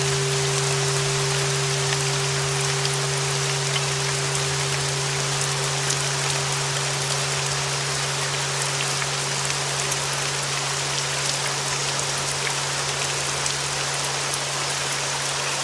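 Steady rain noise with the long ring of a flat bell tuned to 396 Hz, slowly fading, over a low steady tone.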